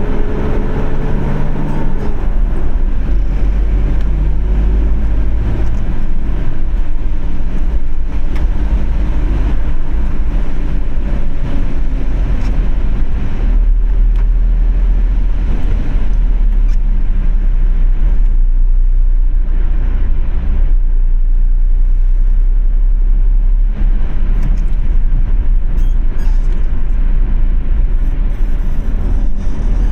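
Car driving in traffic: a steady, loud low rumble of engine, tyre and road noise.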